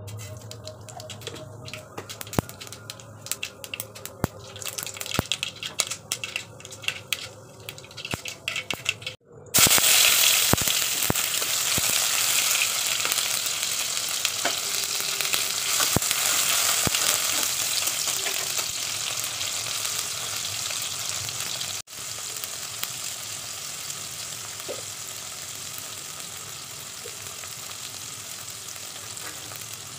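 Hot cooking oil in a wok: seeds crackle in sparse, irregular pops for the first nine seconds. After a sudden cut, chopped tomato frying in the oil gives a loud, steady sizzle that slowly eases off. A second cut a little past the middle leaves a softer, steady sizzle of tomato and ground spices frying.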